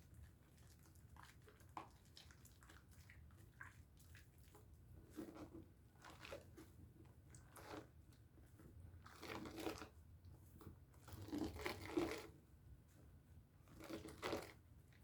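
Wet hands rubbing and squeezing a bar of Dove soap into lather: soft squishing and crackling in short irregular bursts, the loudest a little past halfway.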